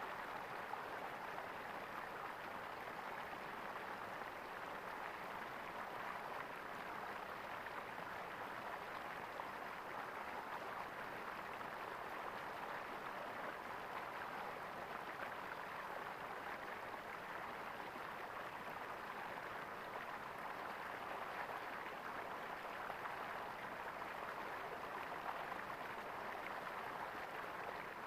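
Flowing stream water gurgling steadily.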